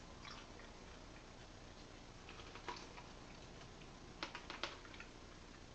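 Faint, sparse crunching and clicks as a dried cicada shell is chewed. About four seconds in come a few sharper clicks as a metal fork works against the barbecue-sauce container.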